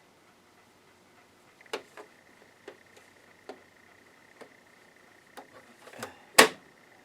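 Clicks and knocks from the Janome ME4014 sewing machine being handled while it is set up, about eight irregular ones, with the loudest knock near the end. A faint steady high tone comes in about one and a half seconds in.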